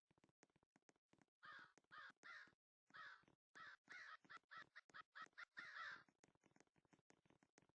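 Crow cawing: a series of faint, harsh caws, three spaced apart near the start, then a quicker run of calls in the middle.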